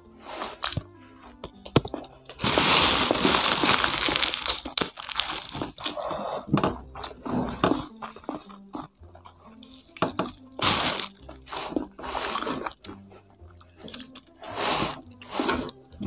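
Close-up chewing and crunching of crispy fried chicken and kremesan crumbs, in irregular bursts with a long, loud crunching spell a few seconds in.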